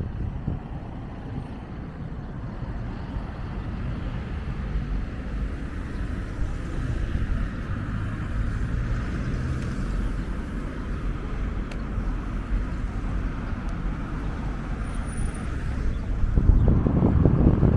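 Street traffic: cars passing on the road, a steady rumble with a tyre hiss that swells and fades through the middle. Wind rumbles on the microphone and grows louder near the end.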